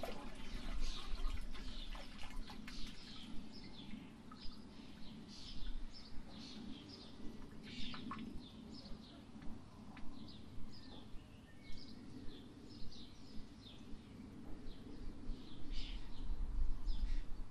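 Small birds chirping: short, high, falling calls repeated about once or twice a second. Wind rumbles on the microphone at the start and again near the end.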